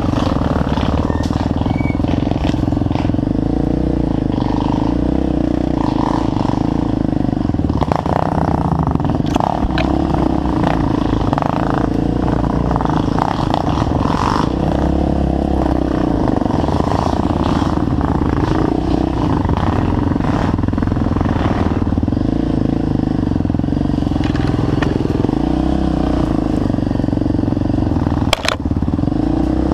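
Trail motorcycle engine running at a steady pace for the whole stretch, with frequent knocks and rattles and a sharp knock near the end.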